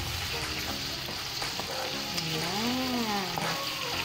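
Marinated chicken pieces with onion and garlic sizzling in hot oil in a nonstick frying pan, stirred with a wooden spatula. The frying hiss is steady.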